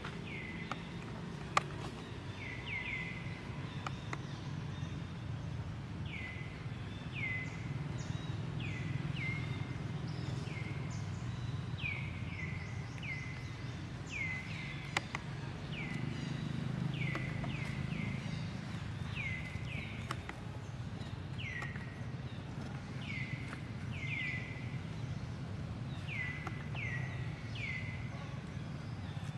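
Short high-pitched animal calls, each sliding down in pitch, repeating about once or twice a second over a steady low background noise, with an occasional click.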